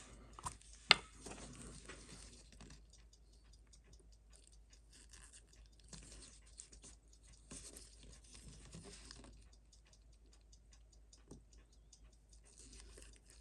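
Faint, irregular small clicks and taps of watchmaker's tools on the parts of a Seiko 6105 wristwatch movement as it is taken apart, with one sharper click about a second in.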